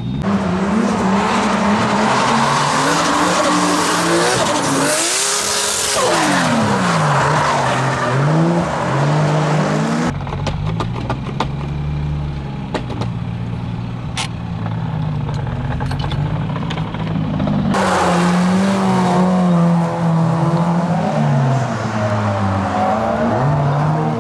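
Toyota Chaser drift car's turbocharged inline-six JZ engine revving up and down through drifts, with tyres squealing. The revs drop sharply and climb again about five seconds in, and the sound changes abruptly twice, about ten and eighteen seconds in.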